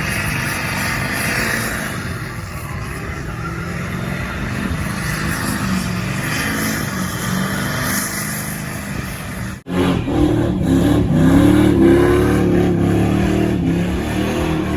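Lifted pickup truck engines running and revving. The sound drops out sharply about ten seconds in, and after that a louder engine revs, its pitch rising and falling.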